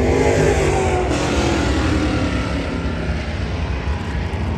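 Dirt late model race cars' V8 engines going past on the track. Their pitch falls as they pass in the first couple of seconds, then settles into a steady drone of engines over a low rumble.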